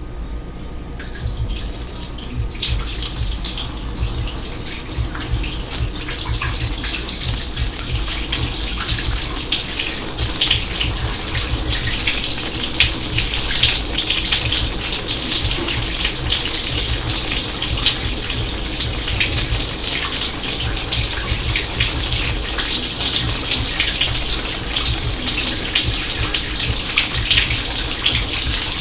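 Water running from a tap into a kitchen sink: it starts about a second in, builds over the next few seconds and then runs as a steady rush.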